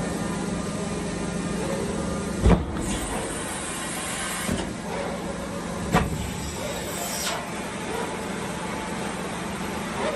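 Airbus A320 landing gear and hydraulics during a retraction test, over a steady hum. There are two loud clunks about three and a half seconds apart, each followed by a hiss lasting a second or two.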